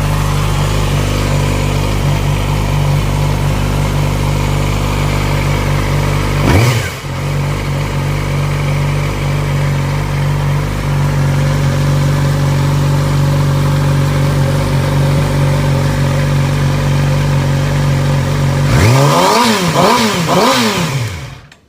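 Yamaha R6 sport bike's inline-four engine idling as it warms up after its first start on the rebuild. It is revved once about six and a half seconds in, then blipped in a few quick revs near the end.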